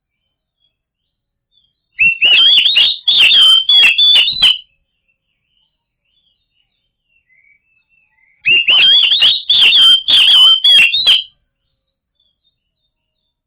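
Oriental magpie-robin (kacer) singing: two loud phrases of rapid whistled and chattering notes, each about two and a half seconds long, with a pause of about four seconds between them.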